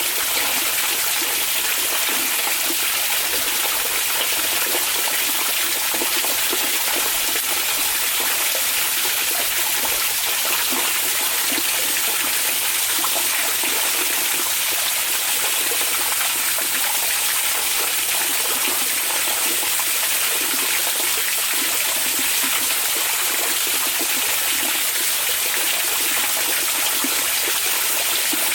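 Hot spring water flowing in a steady, even rush with a fine splashing texture, heavier in the hiss than in the low end.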